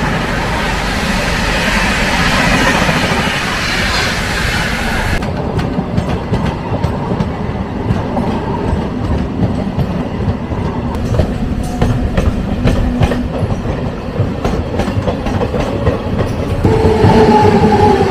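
Passenger train running along the track, its wheels clattering over the rail joints with many sharp clicks. The sound changes abruptly about five seconds in, and a steady pitched tone joins near the end.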